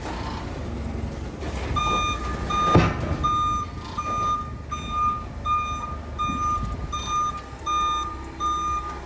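Truck's reverse alarm beeping about twice a second over a low diesel engine idle, starting about two seconds in. A single loud thump comes about a second after the beeping begins.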